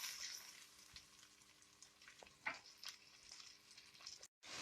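Faint sizzle of grated onion frying in oil, with a few soft clicks; the sound drops out completely for a moment near the end.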